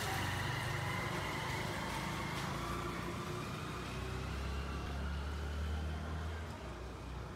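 An engine running steadily, its low hum growing stronger about four seconds in and easing off near the end.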